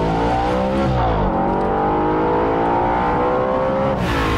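Audi RS 5 Cabriolet's 4.2-litre FSI V8 accelerating hard through the gears. The engine note climbs steadily, dips with an upshift about a second in, climbs again, and drops once more near the end.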